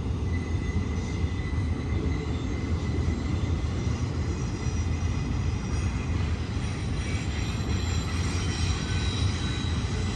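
BNSF intermodal Z train's cars rolling past on a curve: a steady rumble of wheels on rail, with faint high wheel squeal.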